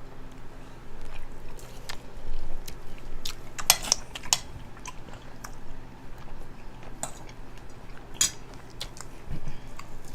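Close-miked eating: chewing and biting, with cutlery clicking against plates in sharp, scattered taps.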